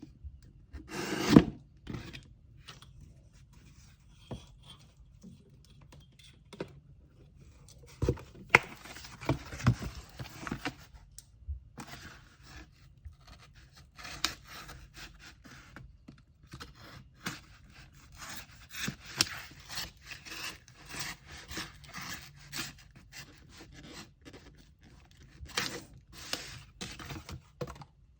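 Hands packing an order: paper rustling and rubbing, with irregular scrapes and a few sharper knocks, the loudest just over a second in and again about eight seconds in.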